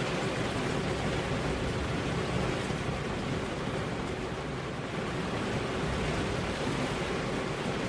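Steady rain with wind, an even rushing hiss that holds at one level with no thunderclap or sudden sounds.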